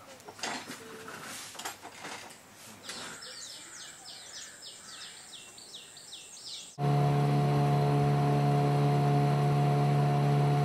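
A bird sings a quick series of about a dozen falling whistled notes over a high steady tone; then, about two-thirds of the way in, a loud steady engine drone starts abruptly and runs on.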